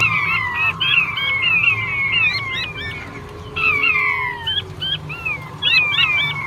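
Male king quail (puyuh batu) calling: a rapid series of high, descending whistled notes that overlap one another, pausing briefly about three seconds in before starting again.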